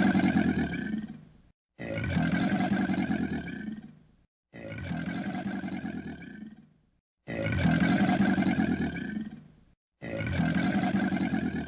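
A recorded animal roar played on a loop: the same roar, about two seconds long, starts abruptly every two and three-quarter seconds and fades off into dead silence between repeats.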